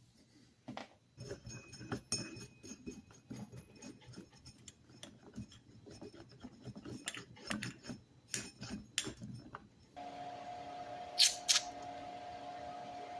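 Irregular metallic clinks, knocks and rattles of tools and small metal parts being handled. Near the end it changes abruptly to a steady hum with a couple of sharp clicks.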